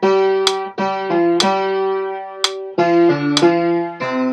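Instrumental accompaniment: chords struck about every half second to second, each ringing on before the next, with a moving lower line of shorter notes about three seconds in.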